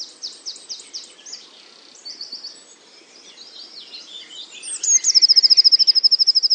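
A songbird singing: a loud, fast, high trill ending right at the start, quieter varied chirps and short down-sweeping notes, then another long, fast, high trill about five seconds in.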